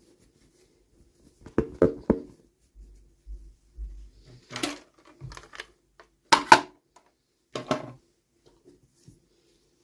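Small hard plastic pieces and packaging being handled: scattered sharp clicks and taps, three in quick succession about a second and a half in and the loudest pair past the middle.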